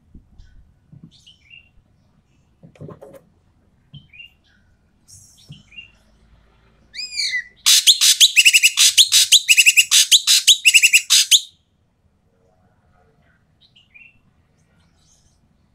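An ekek keling bird calling. Short scattered chirps come first; about seven seconds in come a few rising notes and then a loud, harsh, rapid run of calls lasting about four seconds.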